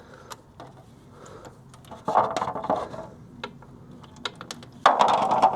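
Old engine oil draining from a Vespa GT 200's sump as the drain plug comes out, with small clicks and knocks of the plug and tools. There are two short rushes of noise, the second and loudest near the end.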